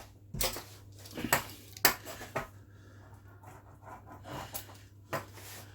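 Pizza cutter wheel run through a sheet of minced-chicken mixture on a worktop, cutting it into squares: about five short, sharp scraping strokes with pauses between them.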